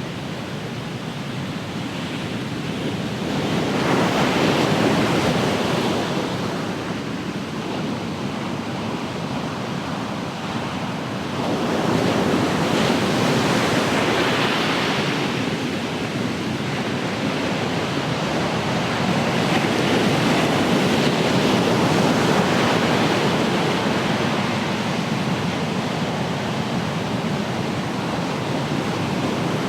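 Ocean surf washing ashore: a steady hiss of water with waves swelling and breaking every several seconds, a little wind on the microphone.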